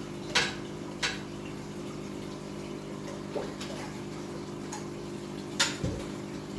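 Aquarium sump pump humming steadily over running water, with a few short sharp sounds at the water, the loudest about half a second and five and a half seconds in.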